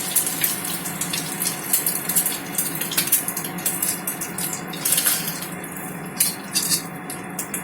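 Egg frying in hot oil in a pan: a steady sizzle with frequent crackling pops.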